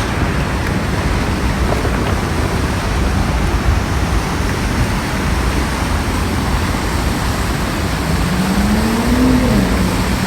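Street traffic noise: a steady wash of passing cars, with a pitched tone rising and then falling near the end.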